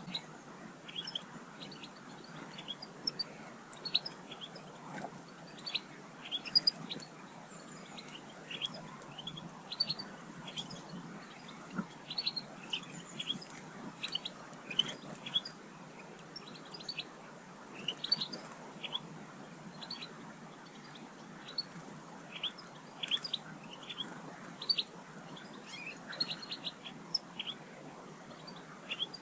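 Small garden birds calling with many short, high chirps, coming thick and irregular throughout, over a steady faint background noise.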